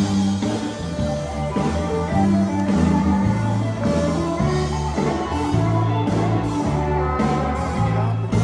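Live sacred steel gospel band playing loud, with a walking bass line under the steel guitar and a voice singing.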